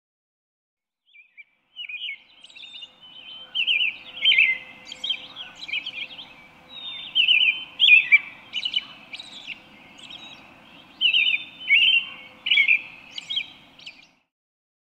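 Birdsong: a quick stream of high chirps and short trills that starts about two seconds in and stops shortly before the end.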